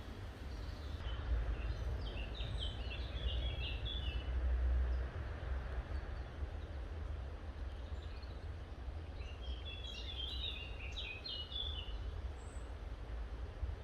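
A songbird singing two phrases of quick chirping notes, the first starting about a second in and the second about eight seconds later, over a steady low rumble.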